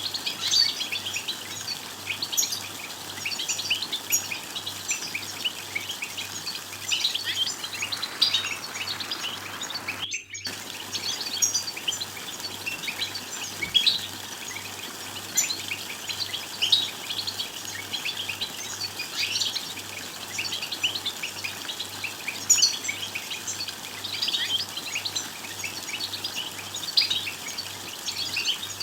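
European goldfinches twittering, a dense run of quick high chirps and trills. The sound cuts out for a moment about a third of the way through.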